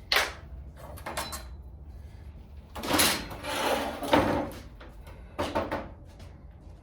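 A sharp knock, then several rough scraping or sliding sounds; the longest lasts about a second and a half.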